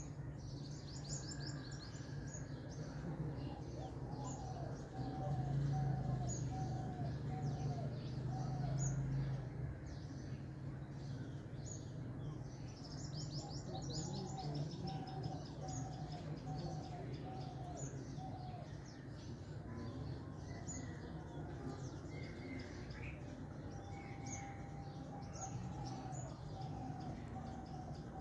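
Several birds chirping in short high calls. Three times a bird repeats one lower call note in a run of about six or seven, with a steady low hum underneath that is louder for a few seconds early on.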